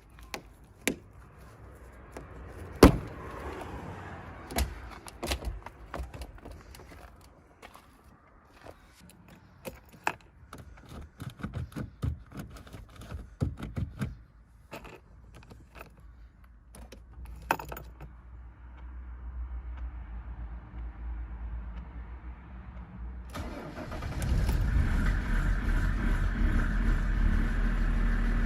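Older Mercedes-Benz diesel cold-started in deep frost: scattered clicks and knocks, then a low hum building, and about three-quarters of the way through the engine catches and settles into a loud, steady run.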